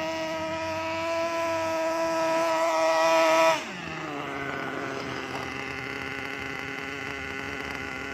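Caster Racing nitro engine of an RC buggy running at a steady high-pitched speed. About three and a half seconds in, its pitch drops and it gets quieter as it falls back to a lower, steady running speed.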